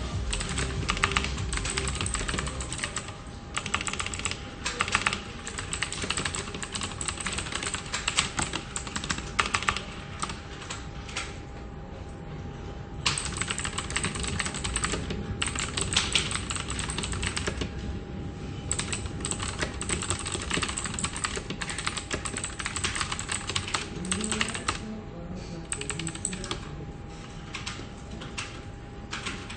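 Fast typing on a computer keyboard, keys clattering in long runs, with a pause of about a second and a half midway and a sparser patch near the end, over a faint steady hum.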